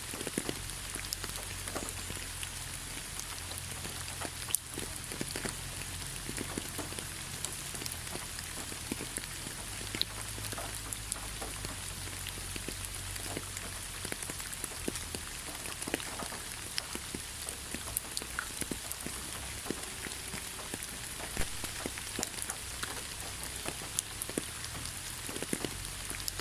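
Steady rain falling in a forest, a constant hiss with many separate drops pattering and ticking on leaves and surfaces.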